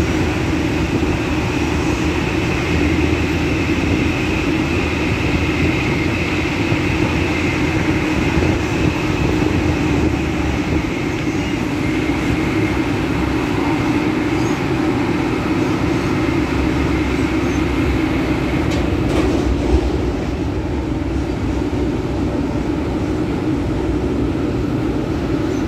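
Rotem-built MTR K-Train electric multiple unit running at speed, heard from inside the carriage: a steady rumble of wheels on rail with a constant hum. A high whine fades out about two-thirds of the way through, and a few sharp clicks come at about that point.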